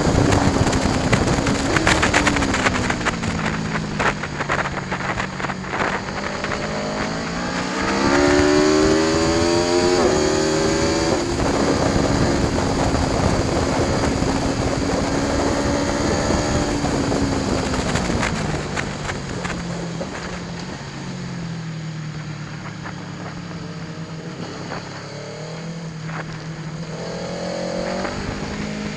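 Aprilia Tuono V4 1100 Factory's V4 engine at speed, over steady wind rush. Its note falls over the first few seconds, then climbs hard with a sudden step down in pitch about ten seconds in, like an upshift. It holds steady, drops again at about eighteen seconds, and rises once more near the end.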